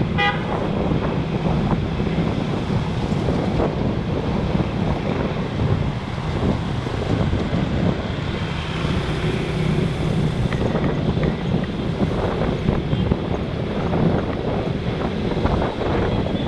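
Wind buffeting the microphone of a camera riding on a moving motorbike, over the steady hum of the engine and road traffic. A short pitched beep sounds right at the start.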